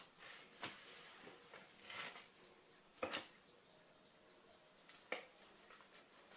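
Insects droning in a steady high-pitched tone, with four short sharp clicks or knocks spread through it.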